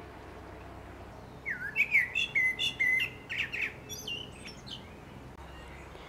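A songbird sings a quick phrase of chirps and whistled notes that starts about a second and a half in and fades out after about three seconds.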